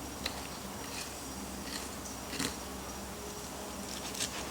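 Fillet knife cutting along a fish's backbone and ribs, giving a few short scrapes and clicks over a faint steady hum.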